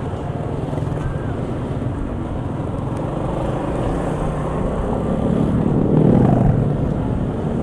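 Street traffic: motor-vehicle engines running with road noise. It grows louder about six seconds in, then eases.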